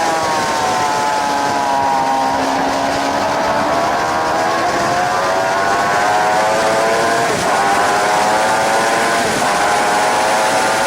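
Suzuki GSX-R 750 K7's inline-four engine with wind rushing over the bike. The revs fall for the first few seconds as the rider slows for a corner, then climb hard under acceleration. The climb is broken by quick upshifts about seven and a half and nine and a half seconds in.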